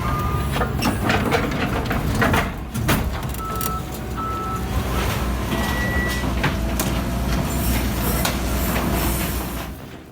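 Heavy truck engines running with a steady low rumble, with scattered knocks and a few short electronic beeps.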